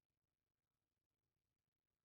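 Near silence: the sound track is muted.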